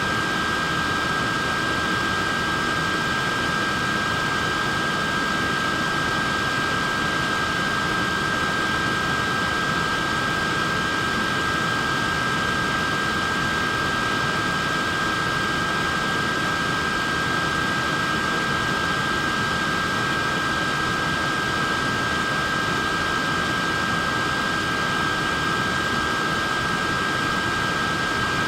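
Neck fan running steadily: a constant rush of air with a steady high motor whine made of two close tones.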